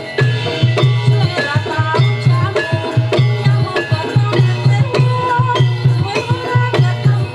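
Javanese gamelan playing jaranan music: kendang hand drums leading a steady low beat about twice a second, with held ringing tones from the metallophones and a wavering melody line over them.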